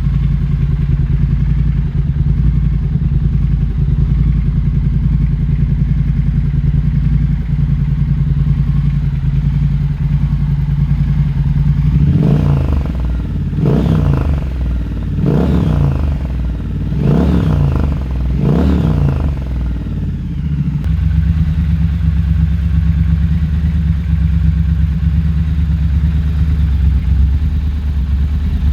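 Triumph Scrambler 1200 XC's 1200cc parallel-twin engine through a Zard aftermarket exhaust, idling steadily, then revved about five times in quick succession about halfway through before settling back to idle.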